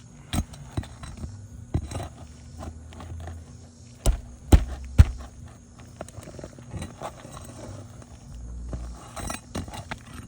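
Flat bar prying roofing nails up from under roof shingles: scattered knocks and scrapes of metal against the shingles, with three sharp strikes about four to five seconds in.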